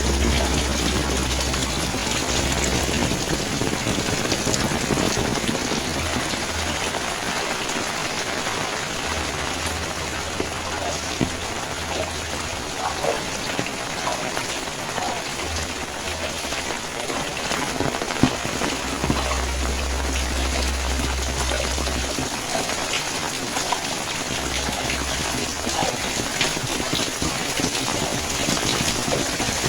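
Steady rain falling, with scattered sharper drip and drop taps over the even hiss and an on-and-off low rumble.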